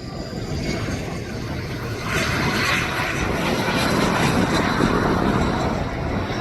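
Aircraft engine noise from a passing aircraft, swelling sharply about two seconds in and staying loud as it goes by.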